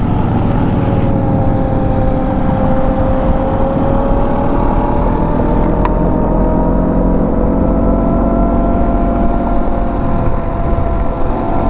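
Motorcycle engine running under way over a low rumble of road and wind noise, its pitch sagging a little and then slowly rising as the bike picks up speed.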